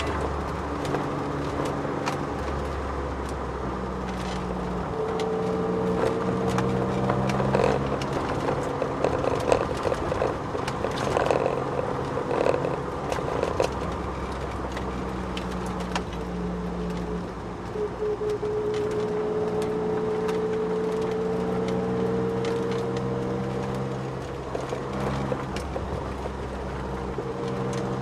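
Ford Sierra XR4x4 twin-turbo heard from inside the cabin at speed, its engine pulling through the gears with a steady drone. Over it runs a whine that rises slowly with speed, which the owner puts down to the car's solid differential mount. Scattered knocks and rattles come from the cabin over bumps.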